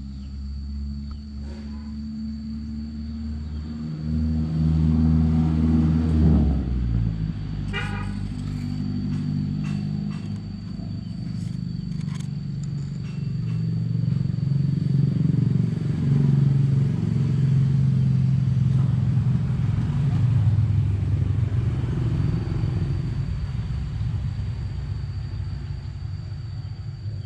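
A motor vehicle engine running close by, its pitch shifting up and down, louder from about four seconds in and again later, with a steady thin high-pitched tone above it.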